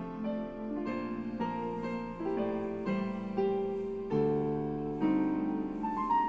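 Yamaha P-95 digital piano playing a slow solo piece, held chords with a melody above, a new chord about once a second and a deeper bass note coming in about two-thirds of the way through.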